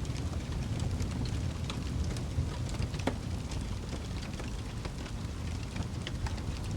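Wood fire burning in a fireplace: a steady low rumble of flames with scattered crackles and pops, one louder pop about three seconds in.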